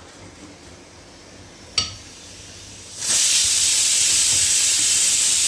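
A sharp metallic clink, then about a second later a loud, steady hiss sets in abruptly and holds.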